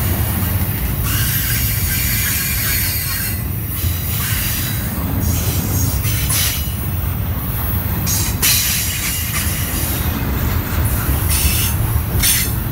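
Double-stack container freight train rolling past at close range: a steady low rumble of steel wheels on rail, with high screeching from the wheels that swells and fades every second or two.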